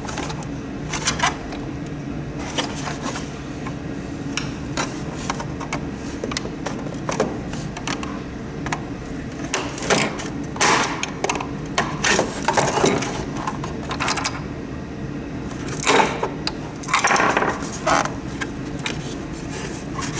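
Humidifier parts being handled and pried at during disassembly: irregular clicks and knocks, with several longer scrapes in the second half, over a steady low hum.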